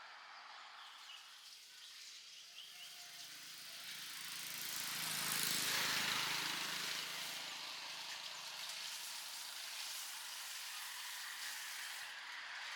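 A vehicle passes by, its engine and road noise rising to a peak about halfway through and fading again, over steady outdoor background noise.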